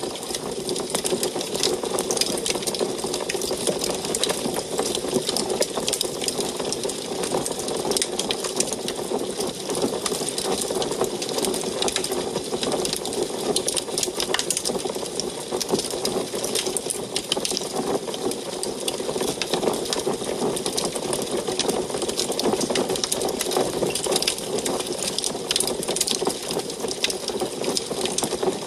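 Wood fire burning in an antique wood stove, crackling densely and without a break over a steady low rush of flame.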